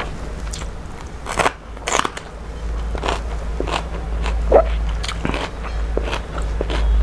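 A person eating by hand and chewing: irregular crunches and wet clicks, with louder crunches about a second and a half, two, and four and a half seconds in, over a steady low hum.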